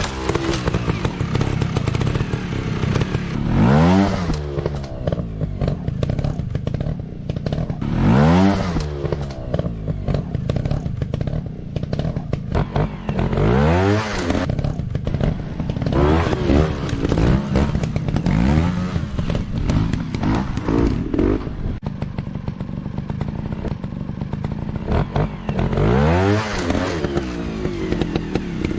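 Dirt-bike engine running and revving over and over, its pitch sweeping up sharply every few seconds between stretches of steady running.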